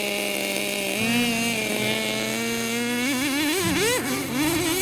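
Nitro RC truck's small glow-fuel engine running at a steady pitch, then revving up and down repeatedly from about three seconds in.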